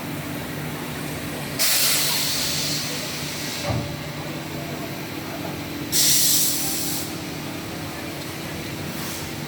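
Two sudden bursts of compressed-air hiss from a woodworking CNC machine's pneumatics, the first about one and a half seconds in and fading over two seconds, the second shorter about six seconds in, over the machine's steady hum.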